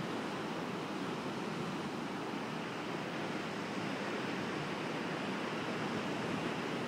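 Steady, even rush of Pacific Ocean surf breaking below and some distance off.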